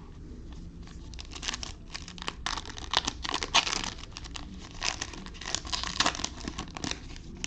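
Plastic trading-card pack wrapper being torn open and crinkled, in a run of irregular crackling bursts from about a second in until near the end.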